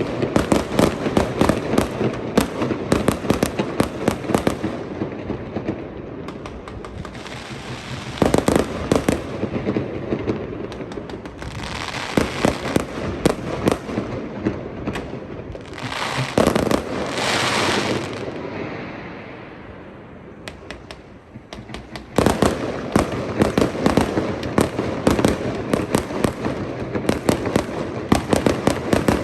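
Fireworks display: dense rapid bangs and crackling that ease into hissing, fizzing bursts, then a quieter lull about two-thirds through before a sudden return of rapid bangs near the end.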